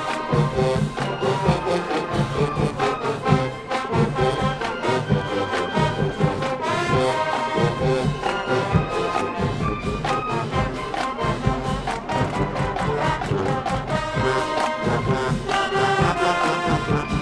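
High school marching band playing its field show: brass melody over a drumline, with frequent drum hits.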